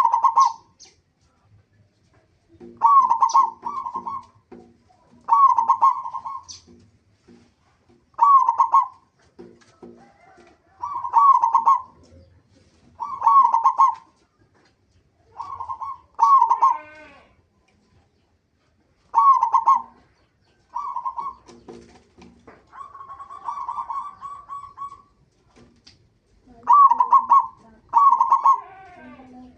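Zebra doves (perkutut) cooing: short, rhythmic phrases of clipped coos repeated every two to three seconds, with a longer drawn-out note a little past the middle.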